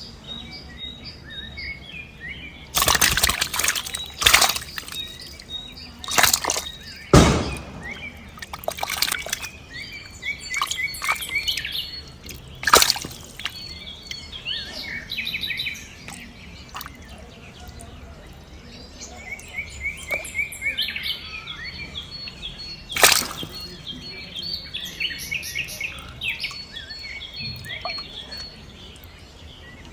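Small birds chirping and calling in quick repeated notes, with several sudden loud splashes or thumps spread through, the loudest about 7 and 23 seconds in.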